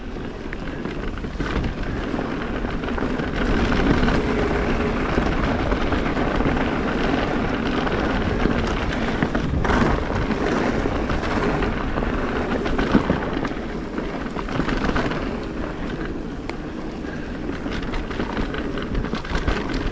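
Norco Range VLT electric mountain bike rolling down a dirt singletrack: steady tyre and trail noise with frequent small knocks and rattles from the bike.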